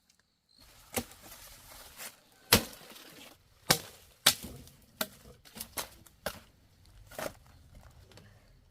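A blade chopping: about ten sharp, irregularly spaced strikes, the hardest about two and a half seconds in.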